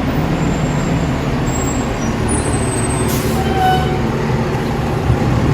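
Blower door fan running steadily, pressurizing the building's ground floor for a smoke leak test: a loud, constant rushing noise with a low hum underneath.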